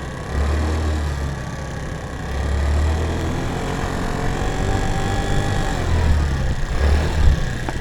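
Small 50cc scooter engine running and revving up and down in repeated surges. The owner suspects the belt or clutch of slipping.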